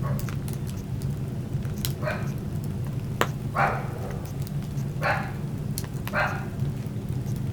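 Wood fire crackling, with scattered sharp snaps over a steady low rumble. Four short rasping sounds come about a second and a half apart.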